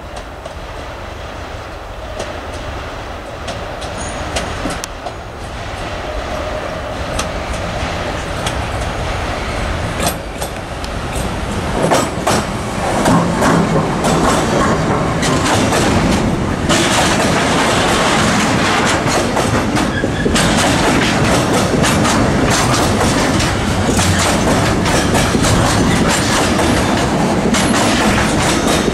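Siemens Vectron electric locomotive 193 377 of DB Cargo hauling a container freight train, approaching and growing louder until it passes close about twelve seconds in. Loaded container wagons then roll past steadily with a clickety-clack of wheels over the rail joints.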